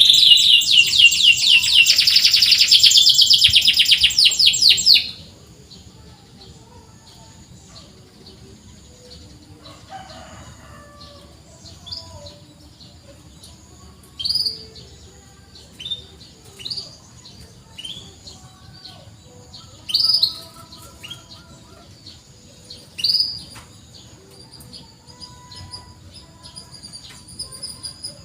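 Domestic canary singing: a loud, rapid trill of quickly repeated high notes for about the first five seconds, then short separate chirps ("cuit cuit") scattered through the rest.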